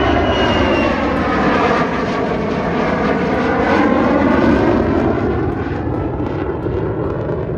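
A fixed-wing aircraft's engine during a flypast, loud and building to a peak about four seconds in, then easing off as it passes.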